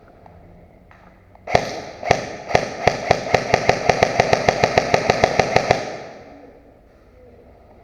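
Airsoft gun firing a long string of shots, about four seconds long, starting slowly and speeding up to about six shots a second.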